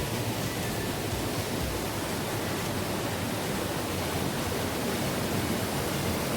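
Steady rush of a cascading creek, growing slightly louder near the end.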